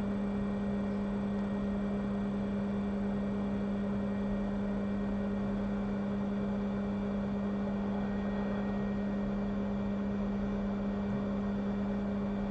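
Hot air rework station blowing steadily while reflowing small capacitors onto a phone logic board: an even airy hiss with a steady low hum.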